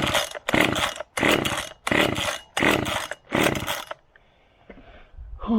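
Old Komatsu Zenoah two-stroke chainsaw being pull-started: six quick, even pulls of the recoil starter in about four seconds, the engine cranking over without catching.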